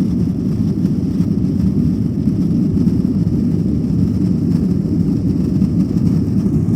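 Jet engines of a departing Boeing 737, heard as a steady low rumble.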